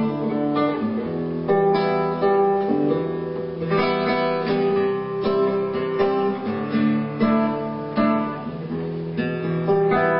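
Acoustic guitar strumming and picking chords in an instrumental passage between sung lines.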